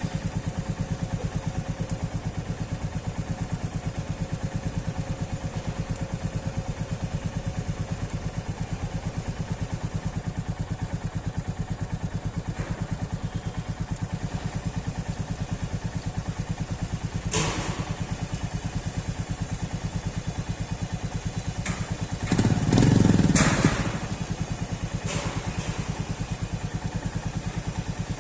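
Royal Enfield Goan Classic 350's single-cylinder engine idling through its exhaust with a steady, even thump. There is a sharp click about 17 seconds in and a short louder burst about 22 seconds in.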